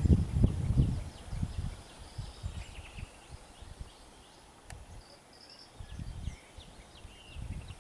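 Small birds chirping in short, high calls, some sweeping down, over low irregular thumping and rumbling that is loudest in the first second and a half, dies away, and returns near the end.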